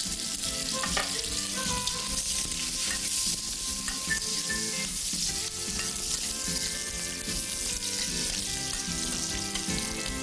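Chopped aromatics sizzling steadily in hot oil in a wok, stirred with a metal ladle, with a few light clicks of the ladle against the pan.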